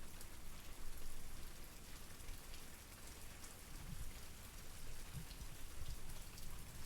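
Steady rain falling: an even hiss with many separate drops ticking on a surface.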